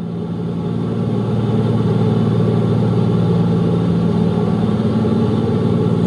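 Steady drone of a C-54's Pratt & Whitney R-2000 radial piston engines, heard from inside the cockpit with the aircraft running on three engines. The sound fades up over about the first second and then holds level.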